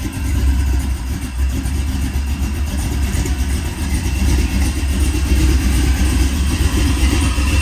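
Buick Regal lowrider's engine running at low speed as the car creeps forward, a steady deep exhaust rumble.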